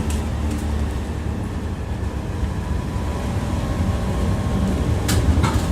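Tram running along the rails, heard from inside the car: a steady low rumble of wheels and running gear with a faint steady whine. Near the end come two sharp clacks as the wheels strike rail joints.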